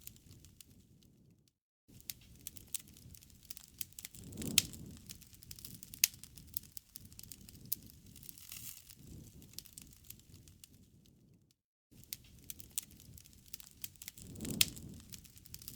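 Campfire crackling: sharp snaps and pops of burning wood over a low rumble of flame, cutting out briefly twice.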